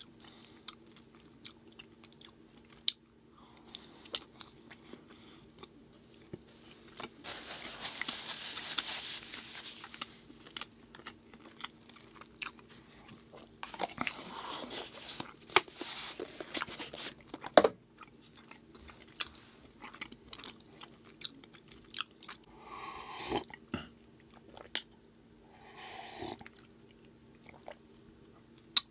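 Close-miked eating: mouth clicks and smacks with longer stretches of chewing and crunching on food. A faint steady hum runs underneath.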